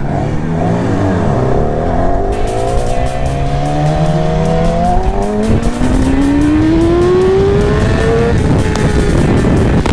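Motorcycle engine pulling hard through a gear, its pitch rising steadily for several seconds, then dropping at a gear change near the end.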